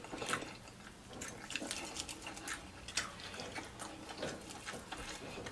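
Chewing and tearing crispy fried chicken by hand close to the microphone: an irregular string of small crackles and clicks, one sharper click about three seconds in.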